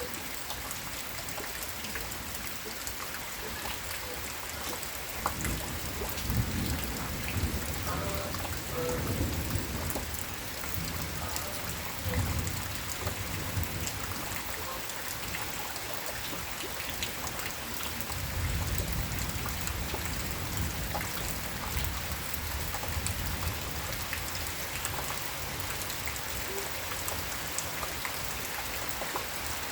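Steady rain falling, with scattered drops pattering close by. Thunder rumbles low several times: a long roll a few seconds in, a shorter one around twelve seconds, and another long roll past the middle.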